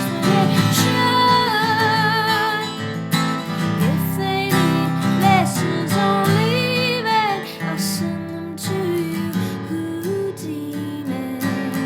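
A woman singing over a strummed acoustic guitar, with long held notes that waver in pitch.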